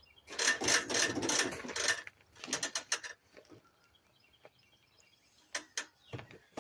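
Metal tools rattling and clicking against bolts as they are run in: a dense rattling stretch of about a second and a half, then a quick run of sharp clicks, then only a few scattered clicks.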